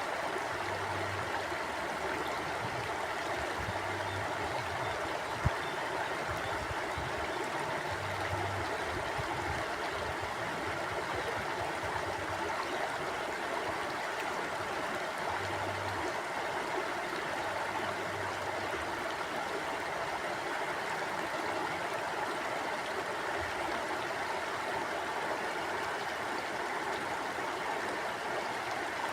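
Forest mountain stream flowing steadily, an even rush of water. There is one sharp click about five seconds in.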